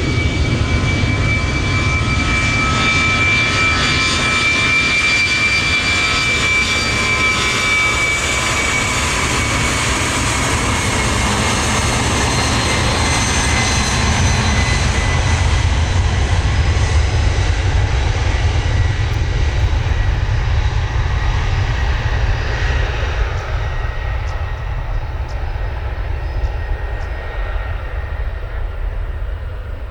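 Jet airliner's engines close by: a deep rumble with a high, steady whine over it. The whine fades in the second half as the aircraft moves away, while the rumble carries on.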